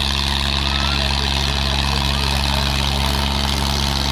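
Diesel tractor engines running steadily with a deep, even drone.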